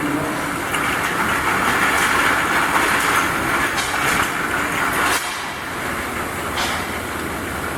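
Double-track bottle washing machine running: a steady mechanical clatter with a loud hiss that cuts off suddenly about five seconds in, and a few sharp clicks.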